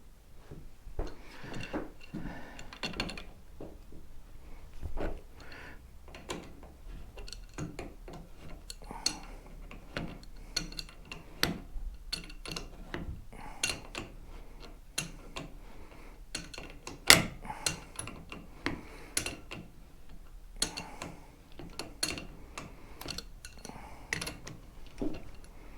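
Irregular clicks, clinks and knocks of hand tools and metal motorcycle fork parts being handled and fitted, with one sharper knock about 17 seconds in.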